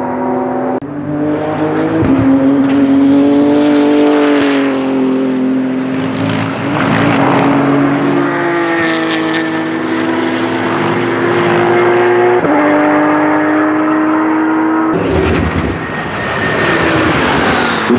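BMW M4 GT3's twin-turbo straight-six engine running hard, its steady note jumping sharply in pitch at several gear changes. Near the end the sound turns harsher and noisier, with a falling tone.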